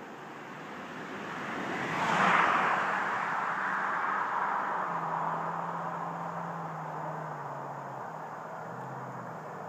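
Ford F-150 pickup with a Flowmaster exhaust driving past. Its noise swells to a peak about two seconds in, then fades slowly, with a low engine tone that steps down in pitch a few times.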